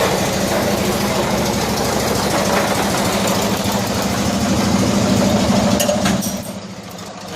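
A 1974 Cushman Truckster's engine idles steadily in gear with an even, fast pulse. Near the end it briefly drops to a quieter level, then comes back up.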